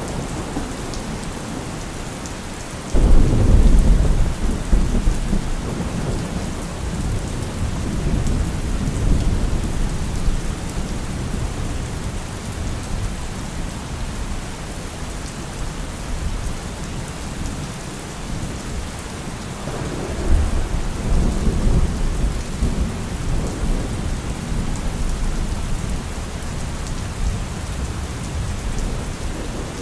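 Steady rain with thunder: a sudden loud thunderclap about three seconds in that rumbles on for several seconds, and a second, softer rumble of thunder about twenty seconds in.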